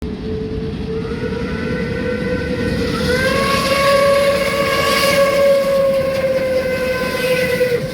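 Train horn sounding one long blast over the rumble of a passing train. The horn steps up in pitch about three seconds in and slides slightly lower near the end.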